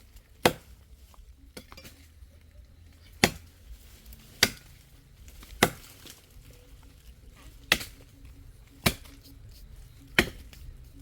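Chopping blows into a dry, hard log: seven sharp strikes, irregularly spaced about one to two seconds apart.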